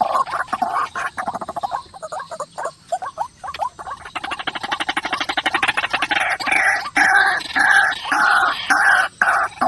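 White-breasted waterhen (ruak-ruak) calling over and over in harsh repeated notes. Near the middle comes a fast, stuttering run of pulses, then steady repeated calls to the end.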